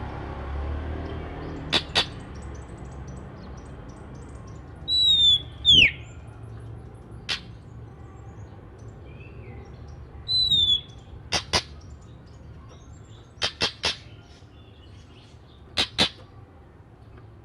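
Oriental magpie-robin (kacer) singing loud, falling whistled notes, with sharp short clicks in pairs and a quick run of three in between.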